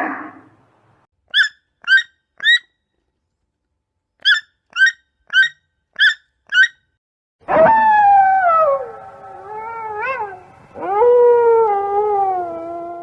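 An animal calling: eight short, high yips in two quick runs, then two long, wavering, howl-like cries that slide downward in pitch.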